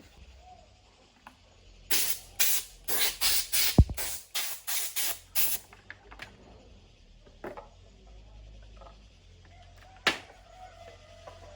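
A quick run of about ten short hissing spray bursts over roughly four seconds, then one more short burst about ten seconds in.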